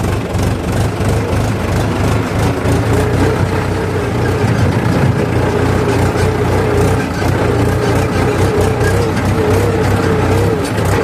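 Heavy diesel engine of farm or earthmoving machinery running steadily. A wavering whine joins it about two seconds in.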